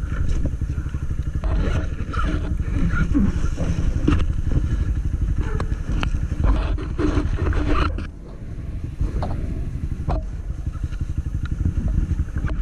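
Honda Titan 160's single-cylinder four-stroke engine running at low speed with a rapid, even putter, dipping briefly about eight seconds in, with a few short clicks and knocks over it.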